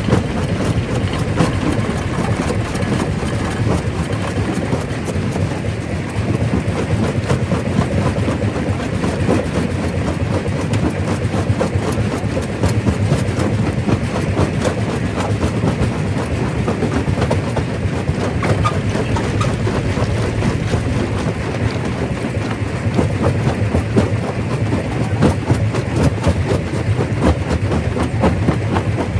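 Primary rock crusher running under load: a steady heavy rumble with dense, irregular clattering and knocking of rock being broken.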